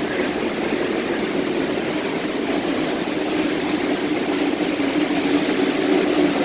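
A moving vehicle running steadily: a constant rumble with a low hum that gets a little louder near the end.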